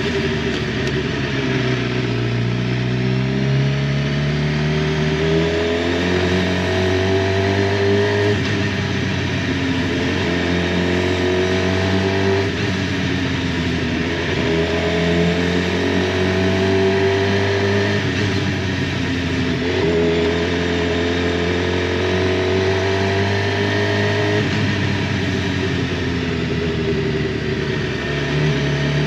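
Suzuki GSX-R750 inline-four engine under way, its pitch climbing and dropping again and again as the bike accelerates and changes gear.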